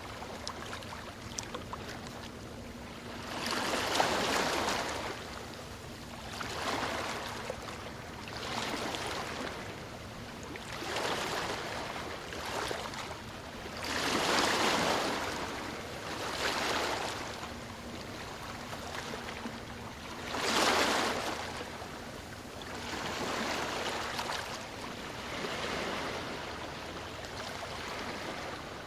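Ocean waves washing onto a shore, one surge of surf every two to three seconds, the strongest about four and twenty seconds in.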